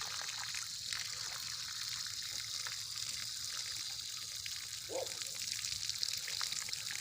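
Water trickling and running out of a garden hose still partly blocked by ice inside, a steady hiss with small splashes.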